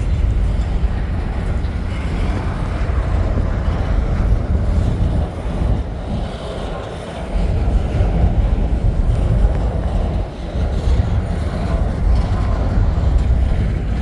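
CN freight train rolling slowly past, a steady low rumble of railcars on the track.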